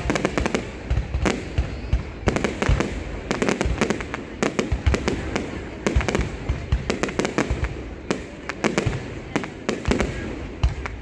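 Aerial fireworks going off in quick, irregular succession: many sharp bangs and crackles, often several a second, with deeper booms among them.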